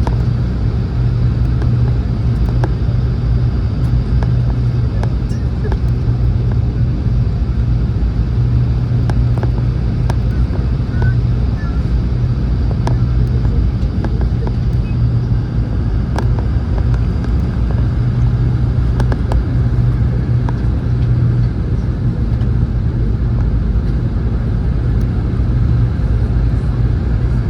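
Steady low drone of cabin noise inside a Boeing 717 airliner on its landing approach, from its rear-mounted Rolls-Royce BR715 engines and the airflow over the fuselage.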